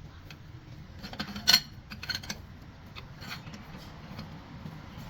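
A few sharp metal clinks and taps from tools or parts being handled, the loudest about one and a half seconds in, over a low steady hum.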